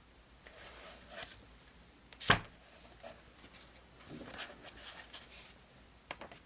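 Desk handling sounds of diary decorating: soft paper rustling, one sharp click a little over two seconds in, more rustling, then two small clicks near the end.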